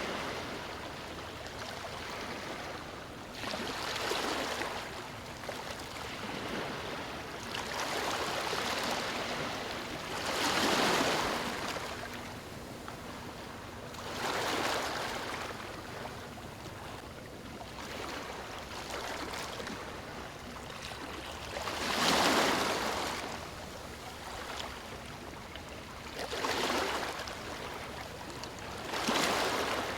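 Small waves breaking and washing over stones at the shore, a steady wash of water with a louder surge every few seconds, about seven in all.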